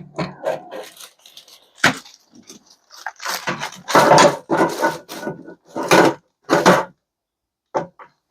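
Scrap metal pieces being handled and set down: a run of separate clatters, knocks and rattles, with a longer rustling rattle around the middle.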